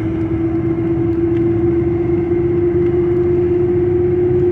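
A vehicle driving: steady engine and road noise with a single whine that rises slowly and slightly in pitch.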